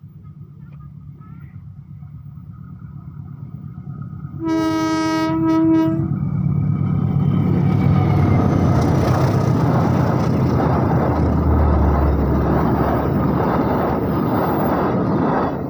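Double-headed diesel locomotives of a passenger train approaching with a rising engine rumble, then a horn blast of about a second and a half. The loud rush of the train passing with wheels on the rails follows and stops suddenly near the end.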